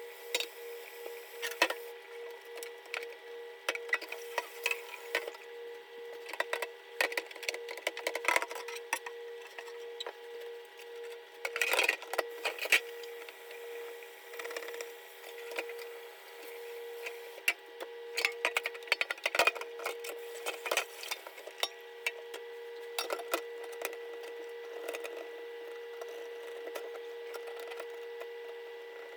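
Scattered clicks, knocks and clatter of containers and shelves being handled during fridge cleaning, with a busier patch of knocks about twelve seconds in. A steady hum runs underneath.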